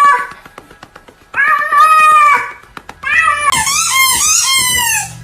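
A cat meowing: the end of one meow at the start, a meow of about a second starting about a second and a half in, then a longer, wavering meow from about three seconds in until near the end.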